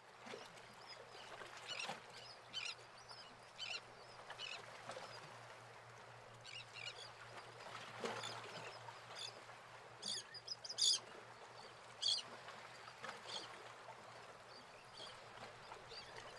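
Birds chirping in short, scattered calls, the loudest about 11 seconds in, over a faint steady hum.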